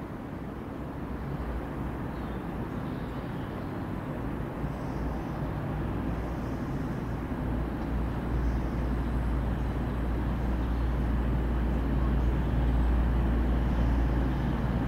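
Diesel train engine running with a steady low drone that grows gradually louder.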